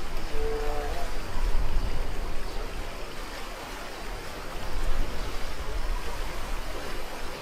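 Rushing, splashing river water around a raft on a river-rapids ride, with wind buffeting the microphone in gusts. A brief tone sounds about half a second in.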